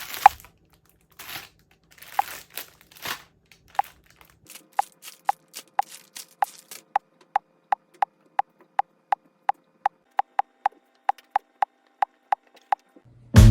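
A few scattered rustling and knocking noises, then a long, even series of short sharp clicks, about two a second, lasting around eight seconds.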